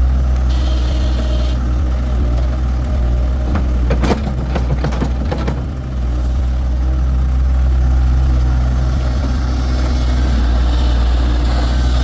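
An engine running steadily at idle with a low, even hum, with a cluster of knocks and clatter about four to six seconds in.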